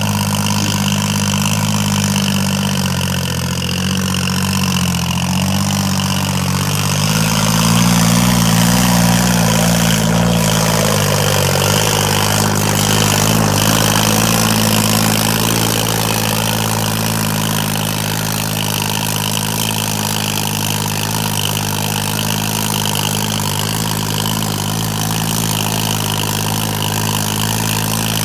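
Tractor diesel engine running near idle, speeding up slightly about a third of the way in, then settling back to a steady idle.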